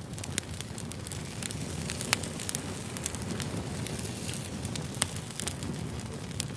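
Fire crackling: a steady low rumble and hiss with irregular sharp pops throughout. The loudest pops come about two seconds in and about five seconds in.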